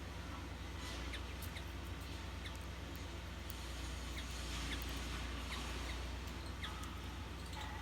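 Small wild birds giving short, high chirps at irregular intervals, over a steady low hum.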